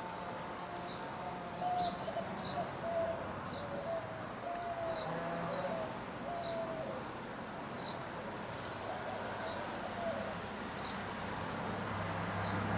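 Birds calling outdoors: short high chirps repeat about once a second, over lower drawn-out notes that fade out about halfway through.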